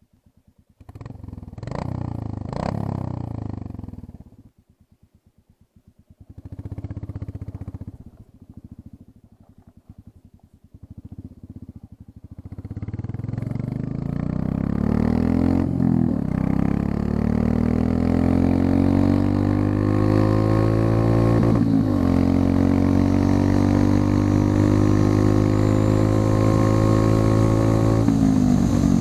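Royal Enfield Classic 350's single-cylinder engine, its exhaust running without the muffler end-tip. It revs in a few short bursts, then pulls away and accelerates hard, the pitch rising through each gear, with three gear changes.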